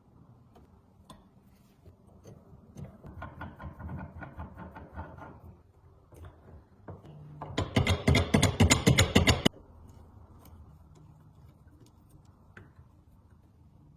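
A small mechanism clicking: softer, even ticking about three seconds in, then a loud, fast run of sharp clicks for about two seconds that stops abruptly.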